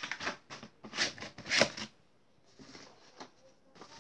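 Craft items being handled and set down by hand: a quick string of rustles and light taps for the first two seconds, then fainter, scattered rustling.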